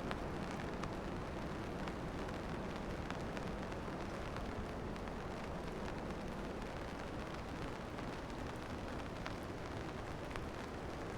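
Steady rain falling, with many scattered drop ticks over a constant low rumble.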